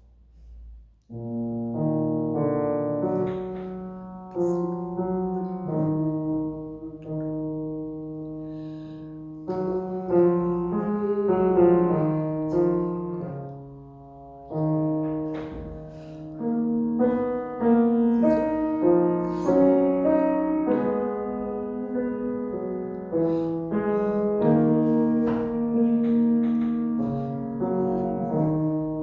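Piano playing slow classical music in long held chords and notes, starting about a second in.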